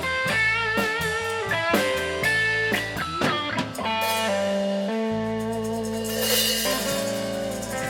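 A rock band playing the closing instrumental bars of a song: guitar lead with wavering, bent notes over bass and drums, ending in a cymbal crash and a held final chord.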